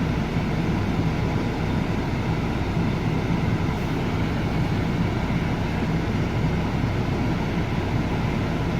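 Diesel car engine idling steadily just after a cold start in sub-zero weather, held at idle without revving.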